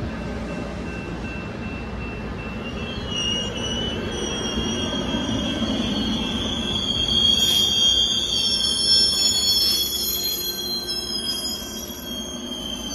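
Coaster bi-level commuter train rolling past close by: a low rumble of the cars over the rails, with a high metallic wheel squeal in several steady tones setting in about three seconds in and loudest around the middle.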